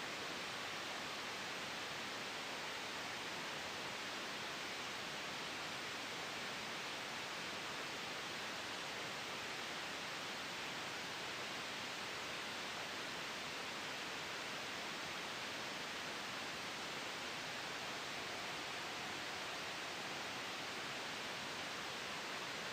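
Steady soft white noise with a gentle wind hiss, even and unchanging, strongest in the upper-middle range.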